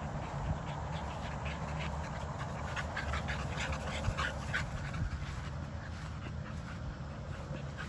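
American Bully puppy panting in quick, short breaths, most busily in the middle of the stretch.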